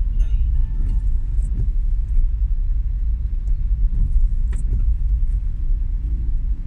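Low, steady rumble of a vehicle travelling on the road, with a few faint clicks and one sharper tick about four and a half seconds in.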